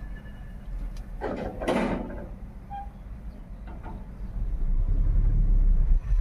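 A car being driven, with a steady low road and engine rumble. A short rushing whoosh, like another vehicle passing, comes about a second and a half in, and the rumble grows louder in the last couple of seconds.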